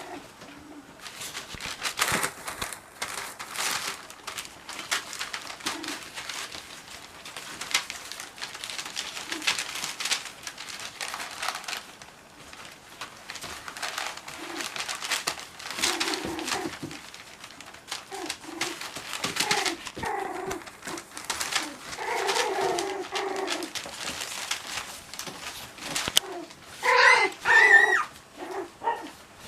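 Cocker spaniel puppies playing: short scuffling and clicking sounds throughout, with small, low puppy growls and a louder burst of high yips near the end.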